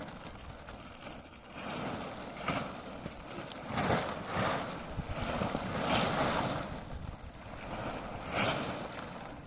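Strong wind gusting against the microphone in rising and falling swells, with a few sharp flaps or knocks.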